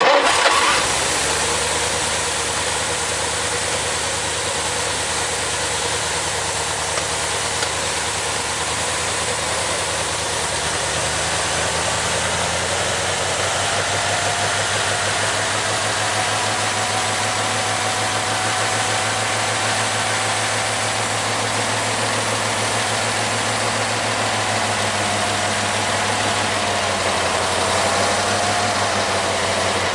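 Tatra 603's air-cooled V8 engine idling steadily, running for the first time after some 20 years standing, with a brief louder burst right at the start.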